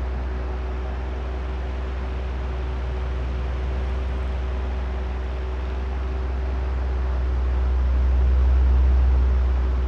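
Oscillating fan running: a steady low motor hum with a rush of moving air, swelling slowly louder near the end as the fan head turns back and forth.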